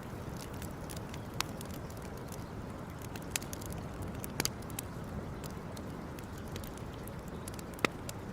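Wood campfire crackling over a steady low rush, with scattered small ticks and a few sharp pops; the loudest pop comes near the end.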